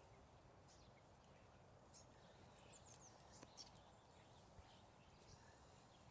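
Near silence: faint outdoor ambience with a low rumble, and a few brief, high bird chirps about halfway through.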